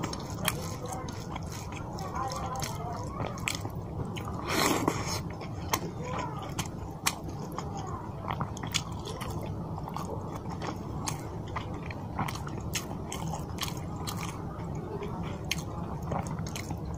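Close-miked eating: a person chewing mouthfuls of rice and fish curry, with frequent small wet clicks and smacks, and one louder burst about four and a half seconds in.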